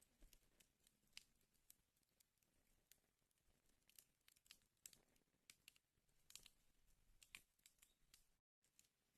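Wood fire burning in a fireplace, faintly crackling with irregular small pops and snaps. The sound cuts out completely for a moment near the end.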